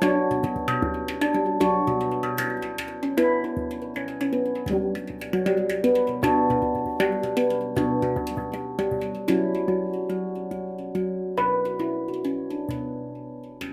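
Stainless steel Baopan 'Ursa Minor' handpan-style instrument played by hand: a steady flow of struck, bell-like notes that ring on and overlap, each fading after it is struck. The notes thin out near the end.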